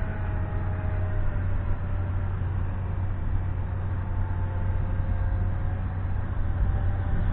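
Steady low rumble of wind on the microphone, with the faint whine of a small RC airplane's motor and propeller drifting in pitch as the throttle changes.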